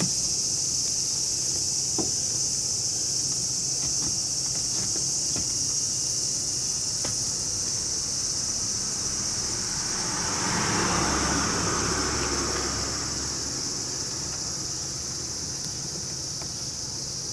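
Steady high-pitched chorus of summer insects. About ten seconds in, a passing vehicle swells and fades under it, with a few faint clicks of handling here and there.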